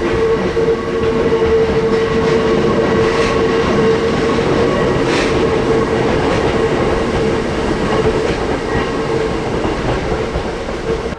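Hakone Tozan Railway electric train running close by, wheels clattering on the rails, with a steady whine over the running noise.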